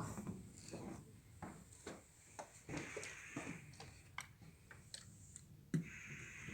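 Irregular light clicks and ticks, with a hiss that comes and goes.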